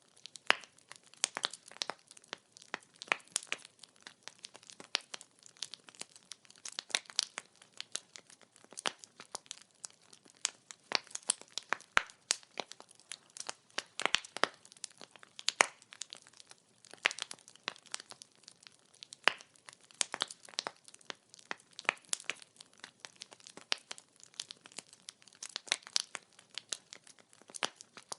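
Burning firewood crackling: a dense, irregular stream of small snaps, with a few sharper, louder pops scattered through, over a faint hiss.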